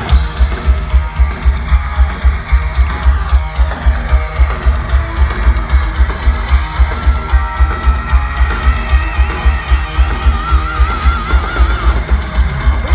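Heavy metal band playing live: a distorted electric guitar riff over a pounding kick drum at about four beats a second. A high held note with wide vibrato comes in about ten seconds in.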